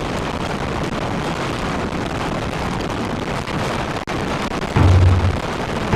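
Typhoon-force wind and rain battering the microphone as a steady roar. From about five seconds in, heavy gusts buffet it with a deep rumble.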